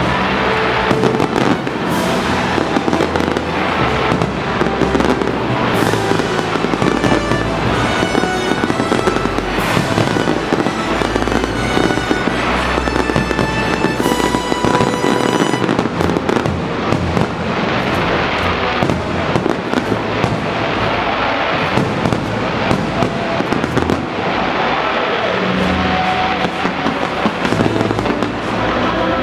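Fireworks display: aerial shells bursting and stars crackling continuously, with music playing underneath.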